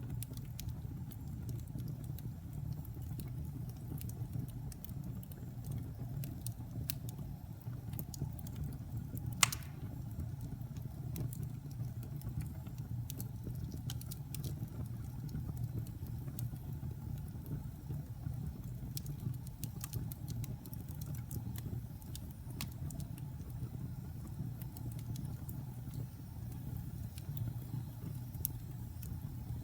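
Wood fire burning in a fireplace: a steady low rumble of flames with scattered light crackles, and one loud pop about nine and a half seconds in.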